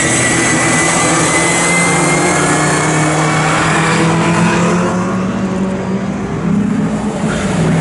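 Historic touring race cars, pre-1966 saloons, running at racing speed, their engines held at high revs in a steady, continuous note. The high end thins out about five seconds in and comes back near the end, as cars move away and others come closer.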